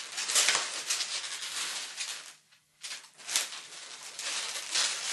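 Latex modelling balloons rubbing and squeaking against hands and each other as a balloon sculpture is shaped, a run of scratchy rubs with a short break about two and a half seconds in.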